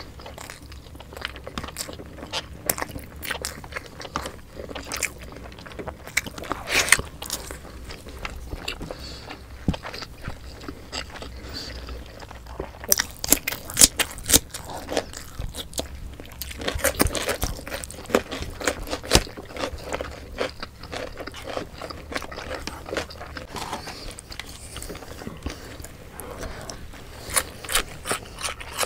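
Close-miked eating sounds of two people chewing pork belly adobo and rice eaten by hand, in a steady stream of small clicks. A run of crisp crunches comes about halfway through as a cucumber stick is bitten and chewed.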